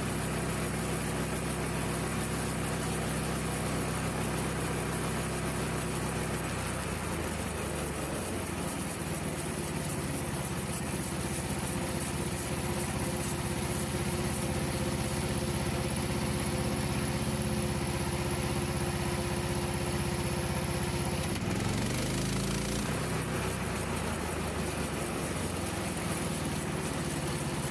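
Frontier OS27 portable bandsaw mill running at speed with its blade cabinet open: the small gas engine drives the band blade around its wheels with a steady drone. The pitch shifts briefly about a quarter of the way in and again about three-quarters of the way through.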